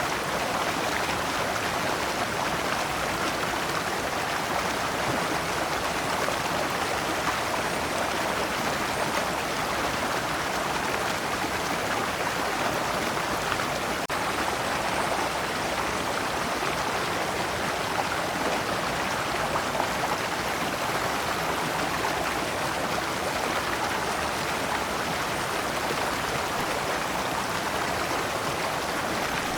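Shallow rocky stream flowing over stones in small cascades, a steady, even rush of water with fine splashing.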